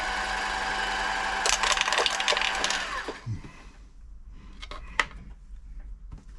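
Silver 1139 (Pfaff-built) sewing machine running steadily to wind a bobbin, then stopping about three seconds in. A few light clicks follow, with one sharper click about five seconds in.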